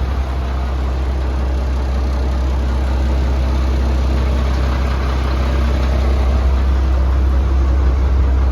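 International DT466 diesel engine of a fire truck idling steadily with a deep, even hum.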